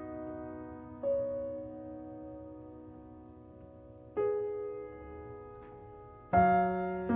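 Soft slow piano background music: chords struck about every two to three seconds and left to fade.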